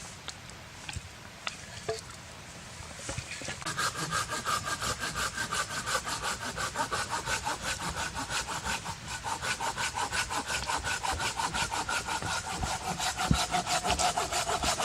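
Hand saw cutting through wood in quick, even back-and-forth strokes, starting about three and a half seconds in.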